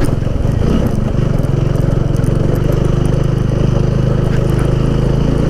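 Motorcycle engine running steadily under load, pulling up a steep off-road climb.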